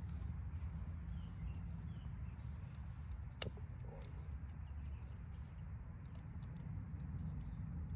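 Wood fire burning in a fire pit, crackling with scattered small pops and one sharp pop about three and a half seconds in, over a steady low rumble.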